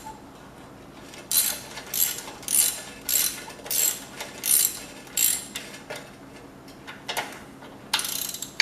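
Socket ratchet being worked back and forth in a series of quick ratcheting strokes, pausing briefly and resuming near the end, as the cylinder head bolts are run down on a freshly replaced head gasket.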